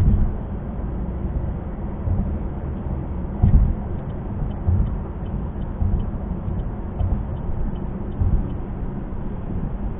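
Car cabin noise while driving on a highway: a steady low rumble of road and engine, with a few thumps. A faint quick ticking runs through the middle.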